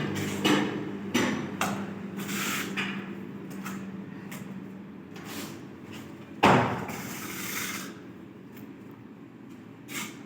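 Knocks and taps of tile work. There are several light knocks early on, one loud knock about six and a half seconds in, and another near the end, with scraping and sliding sounds between them.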